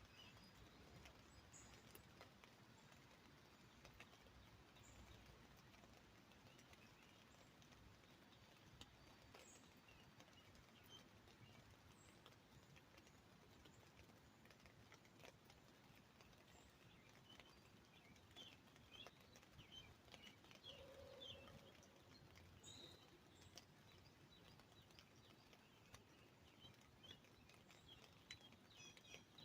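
Faint light rain dripping and pattering on an umbrella, with small scattered ticks of drops, while birds chirp now and then, most busily past the middle.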